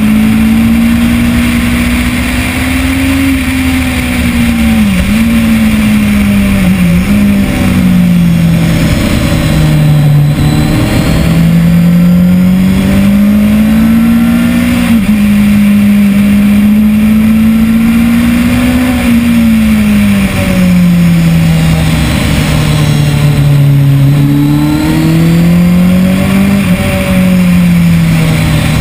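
2010 Kawasaki ZX-10R's inline-four engine at racing revs on track, its pitch climbing and falling as the rider accelerates, shifts and brakes, with quick sharp dips at gear changes about five and seven seconds in.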